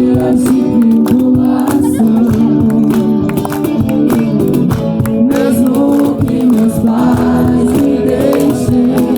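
A group of people singing a worship song together, voices blended in unison, with sharp taps or claps scattered through it.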